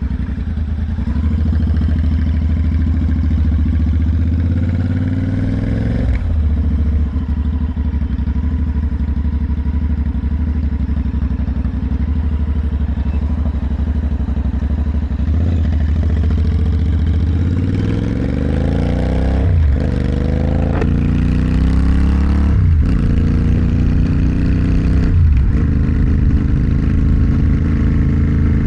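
Motorcycle engine and exhaust under way. The revs climb and drop sharply once about six seconds in, then hold steady while cruising. In the second half the engine accelerates hard through the gears, the pitch rising and cutting back at four quick upshifts.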